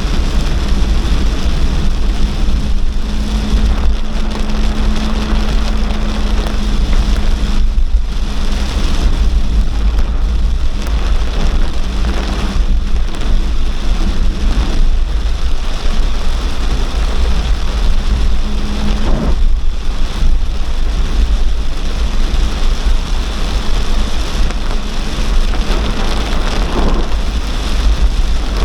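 Torrential cloudburst rain pouring down steadily, with a deep continuous rumble of thunder underneath.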